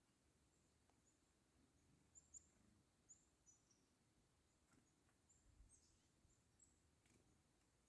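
Black-capped chickadees giving many short, high-pitched chirps, scattered through and faint, with a couple of soft clicks.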